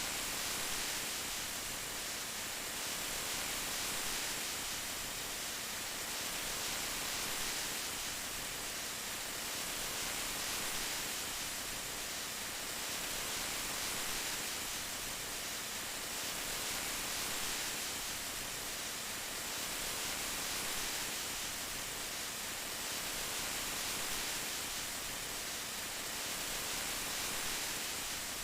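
Steady rain: an even hiss of falling drops that swells and eases gently every few seconds.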